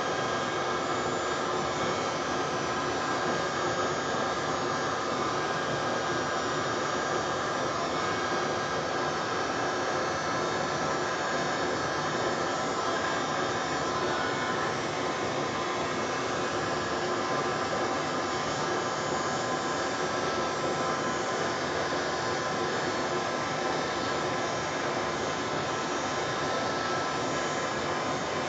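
A small handheld electric blower, of the hair-dryer type used in Dutch pour painting to push wet paint across the canvas, running steadily: a rush of air with a steady whine and no change in speed.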